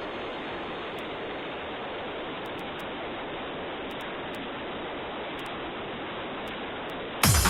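Steady, even rushing hiss that does not change. Electronic dance music with a heavy beat cuts in suddenly right at the end.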